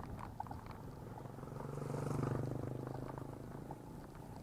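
A motor vehicle passing close by: its engine note swells to a peak about two seconds in and then fades away.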